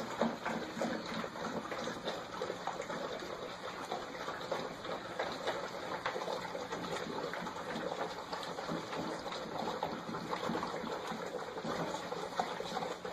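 Water: a steady rushing patter dotted with many small splashes or drips.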